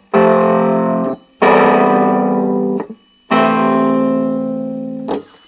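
Hohner Cembalet played in three held low chords, each starting sharply and cut off when the keys are let go. They sound distorted, with a harsh ring-modulation-like edge that is put down to a fault in the instrument's amp.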